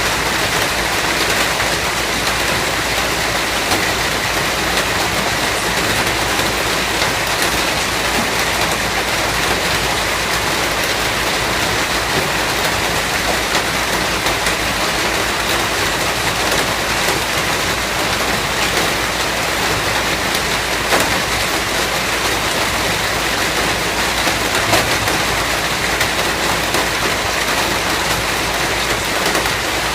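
Steady, heavy rain falling on a surface, a dense even patter of drops with no let-up.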